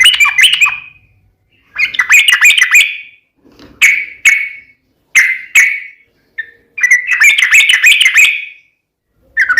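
Yellow-vented bulbul (trucukan) song: loud phrases of quick chattering notes about a second long, broken by short pauses, with a few pairs of single clear notes between them.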